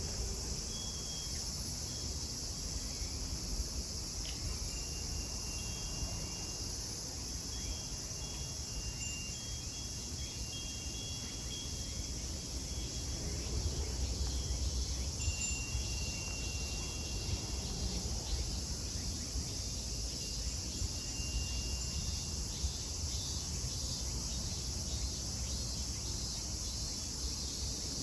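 Chorus of cicadas droning steadily at a high pitch, with short thin high tones breaking in now and then.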